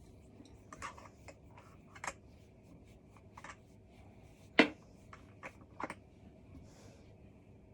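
Scattered light clicks and taps of cat tree parts and screw hardware being handled during assembly, with one sharper knock a little past halfway.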